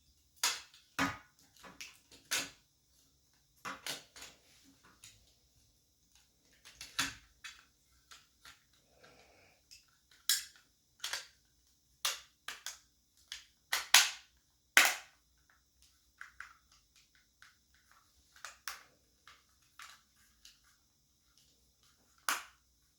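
Irregular sharp plastic clicks and snaps, about a dozen spread unevenly with quiet gaps, the two loudest close together just past the middle: the NVIDIA Shield controller's plastic shell and new battery being handled and pressed back together.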